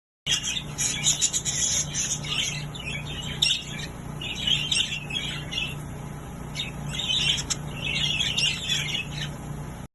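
Small cage birds chirping and squawking in a busy, overlapping chatter, with a low pulsing hum beneath.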